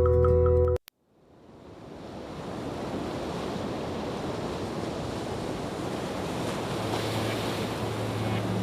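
Soft music with sustained tones cuts off just under a second in. After a brief gap, a steady rush of ocean surf and wind fades in and holds. A low hum enters in the last two seconds.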